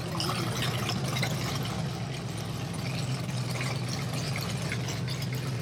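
A car engine idling steadily, with a low, even hum.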